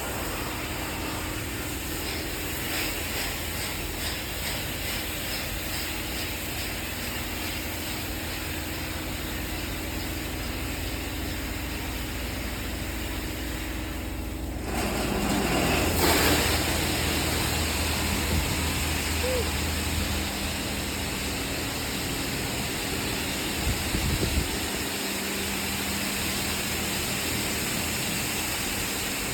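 PDQ Laserwash 360 Plus touchless car wash machine running: a steady hiss of spraying water over the hum of its pumps and motors. About halfway through, the sound briefly dips, then comes back louder with a deeper hum as a new spray stage starts. A couple of short low thumps follow a little later.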